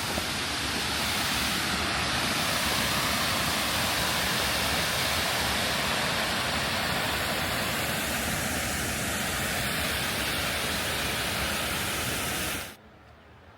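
Steady loud rush of falling water from a creek cascade or waterfall, cutting off suddenly near the end.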